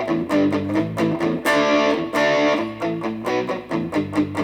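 Electric guitar played through a Positive Grid Reactor 50 combo amp on an AI-generated driven lead tone, described as aggressive, saturated and sustained. A repeating riff of picked chords, with a hard-struck chord about a second and a half in.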